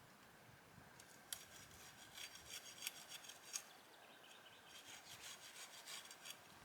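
Quiet rasping and scraping on wood, a hand tool working a piece of timber, in two spells of small sharp clicks and scrapes.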